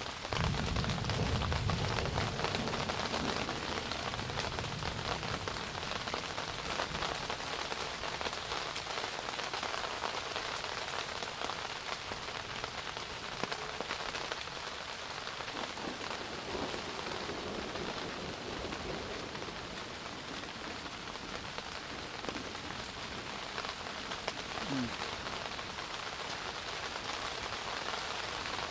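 Steady rain with a dense patter of individual drops, and a low rumble in the first few seconds.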